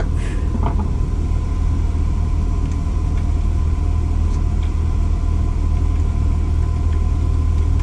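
Steady low hum with a faint constant high tone, with a few small clicks in the first second.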